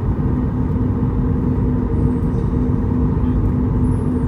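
Cabin noise inside a Boeing 737 MAX with its CFM LEAP-1B engines running on the ground: a steady low rumble with a steady hum.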